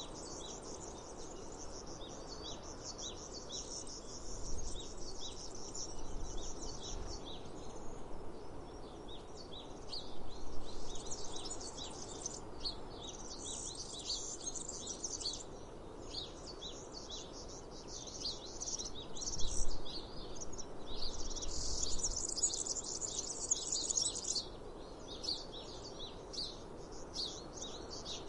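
Birds chirping and twittering in quick, rapidly repeated calls, busier and louder in a few stretches, over a steady outdoor hiss.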